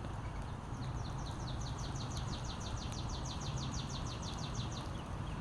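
Steady rain, with a small bird singing a rapid trill of short, high, downward notes, about six a second, from about a second in to near the end, and a slower repeated chirp around it.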